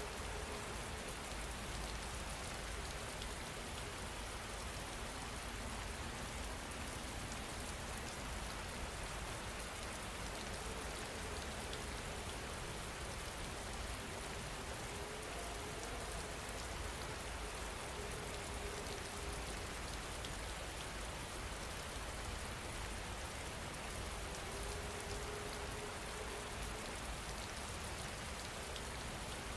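Steady rain falling, an even patter. A faint low tone comes and goes a few times.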